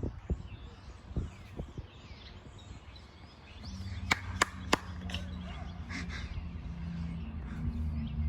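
Small birds chirping. From about a third of the way in, a low steady engine hum builds up under them, and a few sharp clicks come just after it starts.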